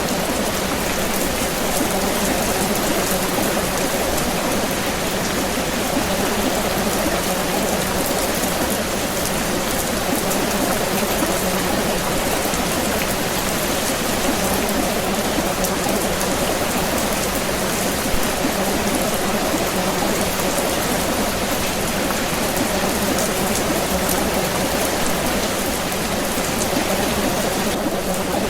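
Steady rain falling, an even hiss of many drops that holds at the same level without let-up.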